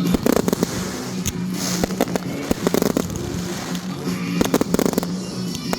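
Consumer fireworks popping and crackling in rapid clusters of sharp reports, with a couple of pauses between the bursts.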